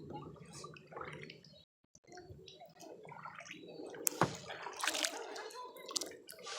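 Kayak paddle dipping and splashing through the water with dripping, in irregular strokes, the sharpest splash about four seconds in.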